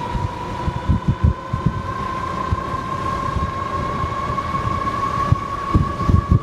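Dual 3000 W electric motors of a Tonnerrey T8 e-bike whining under power while riding at speed: a steady high whine that climbs slightly in pitch. Wind buffets the microphone in low gusts.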